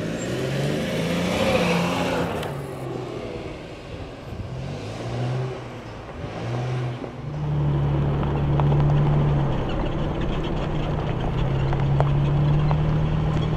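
Nissan Xterra's engine revving up and down as the SUV climbs a steep dirt bank and pulls away on a dirt track. About seven seconds in this gives way to a steadier, louder engine drone from a vehicle driving a dirt road, with scattered light ticks.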